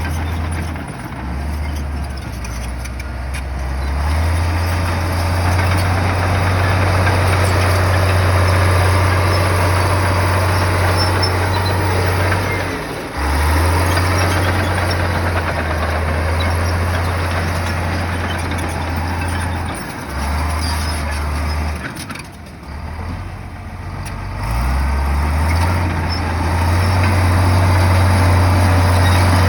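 Heavy bulldozer's diesel engine running, its low drone stepping up and down in speed and briefly dropping off about 13 seconds in and again around 22 seconds in, with a broad mechanical noise over it.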